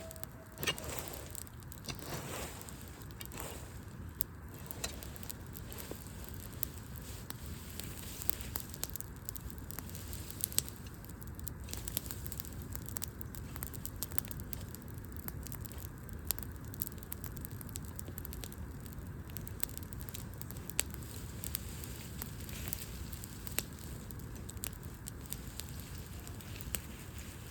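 Wood fire burning, the logs crackling with irregular small pops and a few sharper snaps over a steady low rumble.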